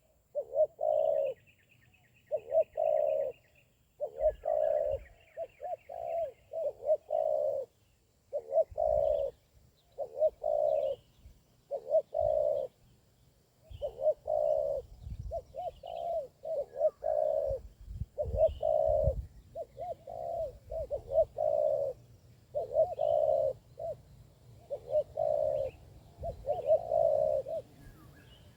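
Spotted doves cooing, one short coo phrase after another about every second, with faint chirps of small birds higher up.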